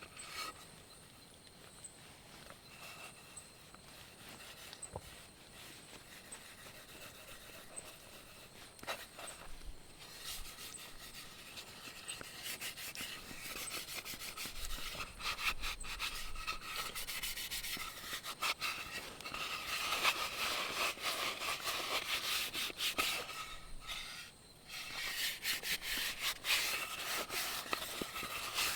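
A wooden plate being shaped by hand, with rapid scraping and rubbing strokes on the wood. The strokes start faint and grow louder and denser from about ten seconds in.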